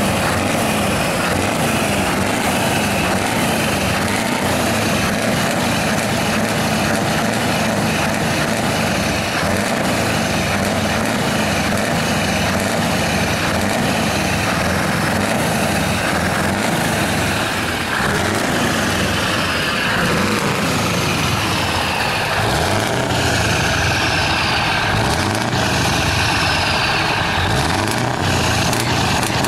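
Scania R truck engine running through an open, straight-through exhaust, loud and continuous, with high whistles that fall in pitch every couple of seconds. About two-thirds of the way through, the engine pitch climbs as the truck accelerates.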